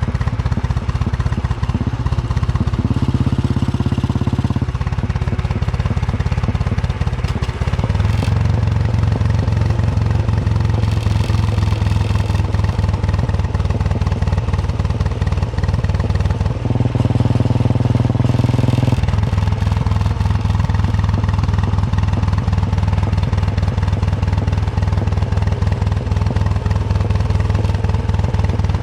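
Royal Enfield Bullet 350's single-cylinder engine thumping steadily as the motorcycle cruises. The engine note shifts briefly twice, a few seconds in and again about two-thirds of the way through.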